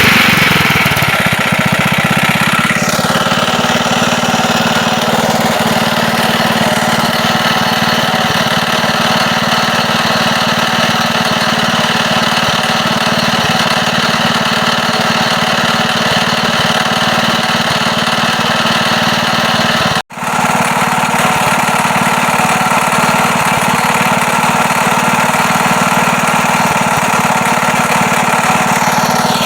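Wisconsin air-cooled engine running steadily, with a knock that the owner puts down to a worn connecting rod with play at the crank. Its speed drops slightly early on, and the sound cuts out for an instant about two-thirds of the way through.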